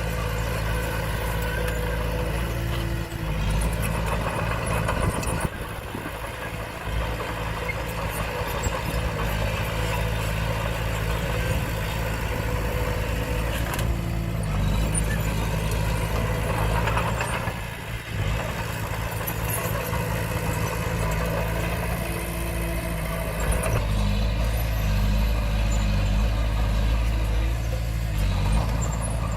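Diesel engine of a Komatsu D20P bulldozer running steadily, its pitch and load shifting as the machine works, heavier and deeper about 24 seconds in.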